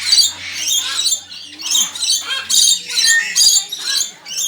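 Bird squawking and chattering in repeated high-pitched bursts, about two a second.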